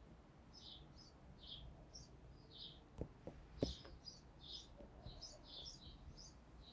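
Small birds chirping, a steady run of short high notes repeating every half second or so. Three sharp clicks come a little past the middle, the last of them the loudest sound.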